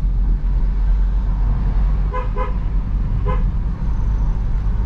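Car horn beeped three short times, two quick ones and then one more about a second later, over the steady low rumble of a car driving uphill.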